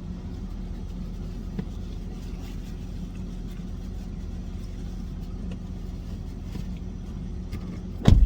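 Car engine idling with a steady low hum. A single loud knock comes just before the end.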